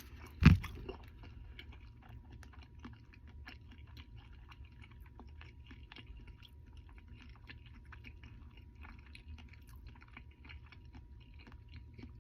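Close-up chewing of a mouthful of burger, with many small wet clicks and crackles. One loud, short thump about half a second in.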